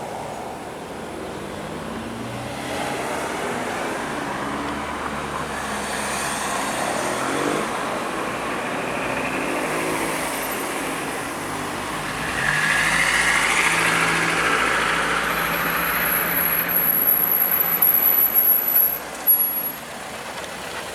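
Road traffic passing, with engine hum and tyre noise that swells louder about twelve seconds in as vehicles go by. A thin high squeal sounds for a few seconds near the end.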